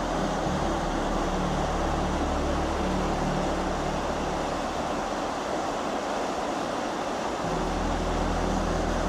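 Steady, loud rushing of a waterfall, an even roar of falling water with no breaks, over quieter background music.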